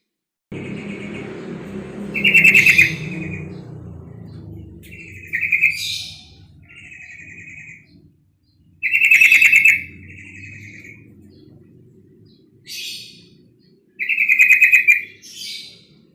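Female yellow-vented bulbul (trucuk) giving short, rapid, trilled chattering calls, about eight phrases with gaps between them: the call bird-keepers play as a lure to provoke males. A low steady hum runs underneath from about half a second in.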